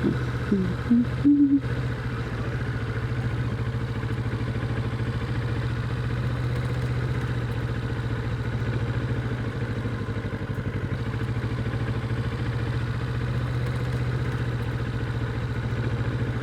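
Kawasaki Vulcan 650's parallel-twin engine running steadily at idle or near it, with no revving. A few short, louder higher-pitched sounds come in the first second and a half.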